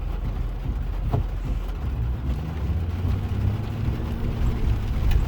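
A car driving, heard from inside the cabin: a steady low rumble of engine and road noise, with an engine note coming up about three seconds in.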